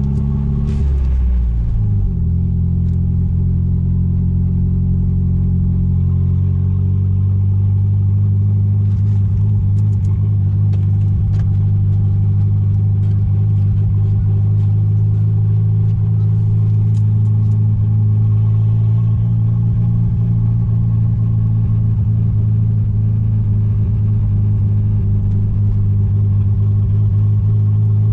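Chrysler Conquest's turbocharged G54B four-cylinder engine running steadily. Its pitch shifts about two seconds in, then holds even.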